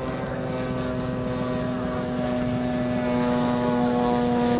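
Radio-controlled model airplane's engine and propeller running at a steady high pitch, growing louder in the second half.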